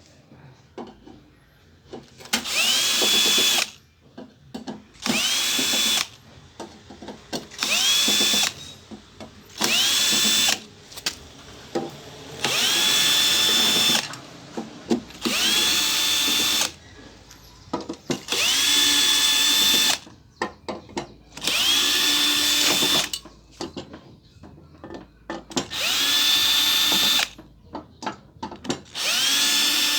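A small electric motor run in short bursts, about nine times. Each time it whines up to a steady high pitch and cuts off after a second or two. Short clicks come between the bursts.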